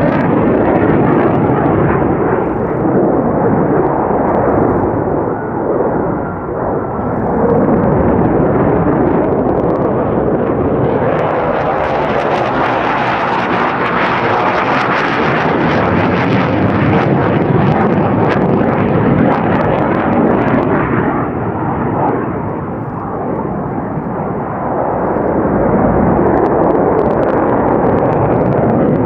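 Jet roar from an F-4 Phantom's twin J79 turbojets in flight, swelling and growing brighter for about ten seconds in the middle as the jet comes closest, then falling back to a duller rumble.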